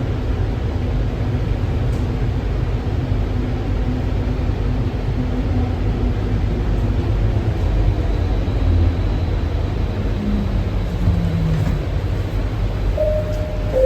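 Inside a rubber-tyred Alstom Innovia APM 300R light-rail car on the move: a steady low rumble with a motor hum that falls in pitch near the end as the train slows. A clear chime tone sounds just before the end.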